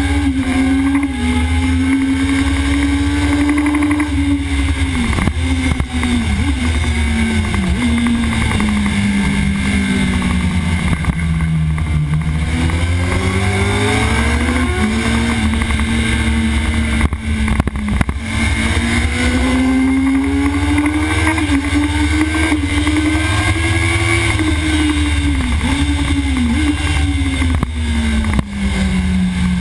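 Sport motorcycle engine at racing speed, heard from onboard. Its pitch climbs and falls with the throttle, with short dips at gear changes. It sinks for several seconds from about five seconds in as the bike slows for a corner, climbs again through the middle, and drops near the end. A steady low rumble runs underneath.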